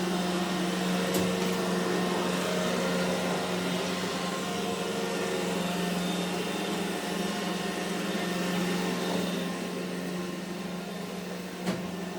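iRobot Roomba e5 robot vacuum running: a steady motor hum with brush and suction noise. A light knock comes about a second in and another near the end.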